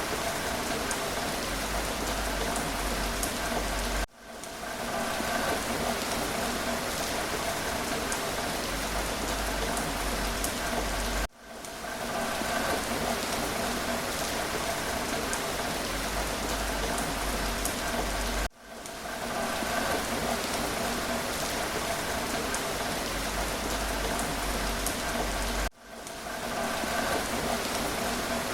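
Steady rain falling, with a constant hiss and faint pattering drops. About every seven seconds it cuts out abruptly and swells back in, the sign of a short rain recording played on a loop.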